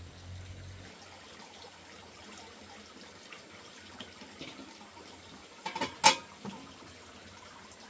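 Water running or splashing, with a few knocks and one sharp, loud clack about six seconds in.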